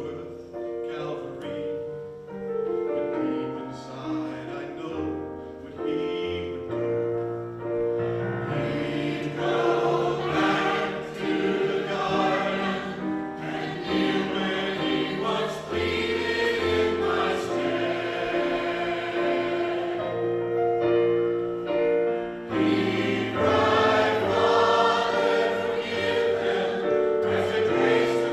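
Choir singing a slow gospel song in sustained chords, swelling fuller and louder about eight seconds in and again near the end.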